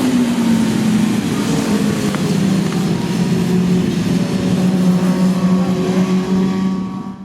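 Racing motorcycle engines running hard at high revs, the pitch sagging slightly, cutting off suddenly near the end.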